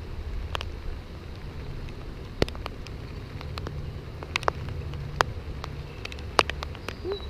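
Rain falling, with irregular sharp drops tapping close by over a steady low rumble.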